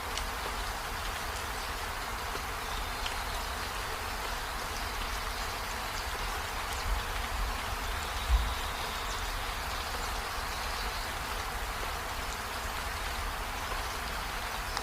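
Steady rain falling, an even hiss over a low rumble, with two dull low thumps about seven and eight and a half seconds in, the second the louder.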